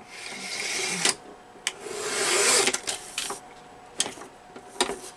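Paper trimmer cutting through a large book page: two scraping passes of the blade along the paper, each about a second long, with light clicks and taps of the trimmer and paper between and after them.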